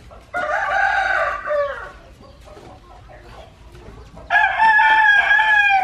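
A rooster crowing twice. Each crow is a long, loud, pitched call of about one and a half seconds; the first starts just after the beginning and the second about four seconds in.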